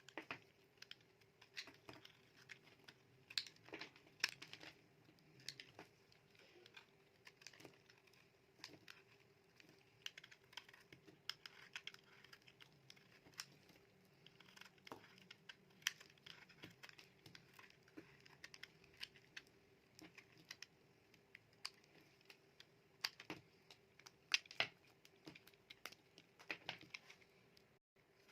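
A knife cutting through dry bar soap, making crisp, irregular crackles and clicks as the blade goes through.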